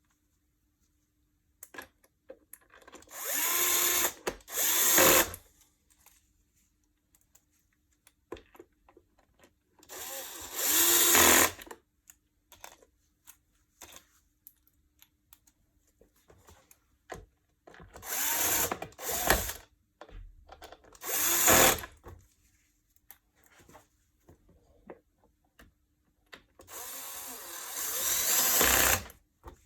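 Power drill run in short bursts of a second or two, six in all, its pitch rising and falling within each burst, with faint clicks and handling noises in between.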